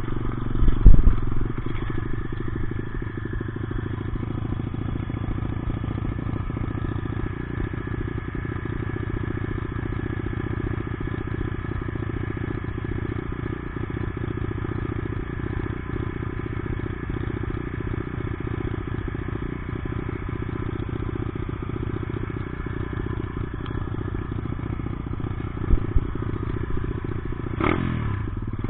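Dirt bike engine running steadily as it is ridden, with a loud knock about a second in and two short knocks near the end. The engine pitch sweeps down and back up just before the end.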